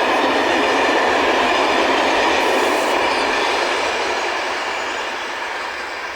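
Passenger train rolling past on the rails, its steady running noise fading away after a few seconds as it recedes.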